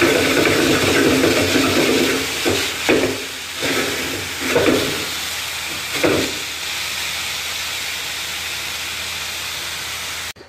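Marinated chicken pieces sizzling as they fry in a pan, a steady hiss with a few louder short strokes between about two and a half and six seconds in.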